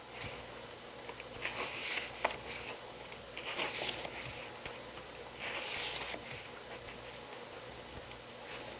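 Pages of an album photo book being turned by hand: three soft paper swishes about two seconds apart, with a few light handling clicks between them.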